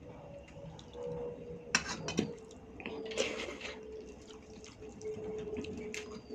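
Wet eating sounds from a meal of dal, rice and curries: squelching of the soft, saucy food and a few sharp clicks, the loudest about two and three seconds in.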